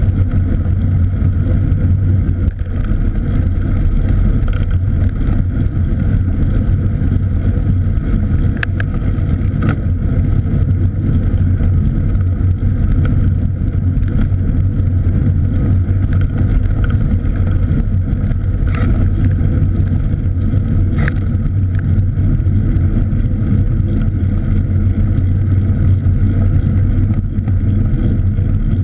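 Steady low rumble of wind and road noise on a camera carried on a moving cross bike, with a few brief clicks or rattles.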